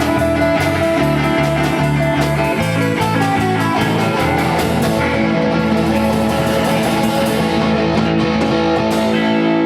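Rock band playing an instrumental passage with guitar to the fore, without singing.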